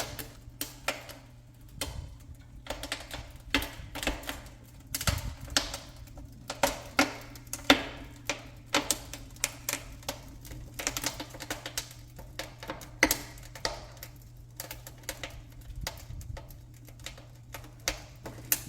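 Firewood crackling in the firebox of a downdraft wood-burning stove: irregular sharp snaps and pops, several a second, over a steady low hum.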